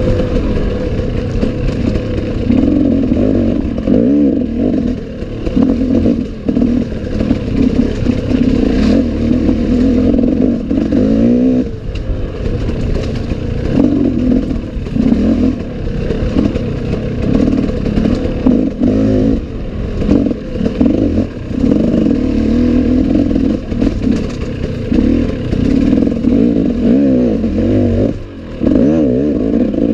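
Enduro dirt bike's engine running hard under load, its pitch rising and falling over and over as the throttle is worked, with scattered knocks.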